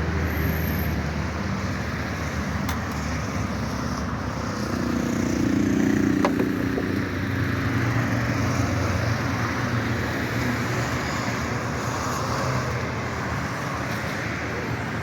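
A car engine running with steady road or rain noise over it; the engine note rises for a few seconds around the middle, then settles lower.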